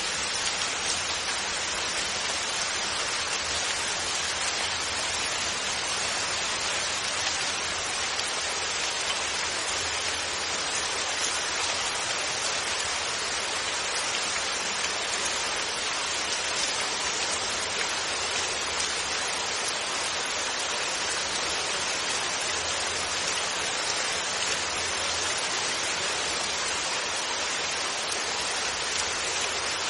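Steady rain falling, a constant even hiss with no thunder.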